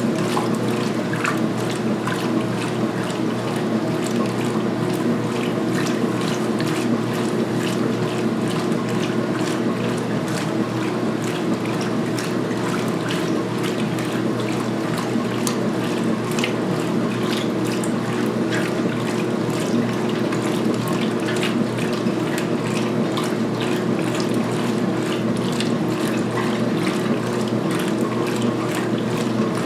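2016 Speed Queen top-load washer agitating a load of towels at high speed in the main wash: a steady motor and transmission hum with water sloshing and splashing in the tub.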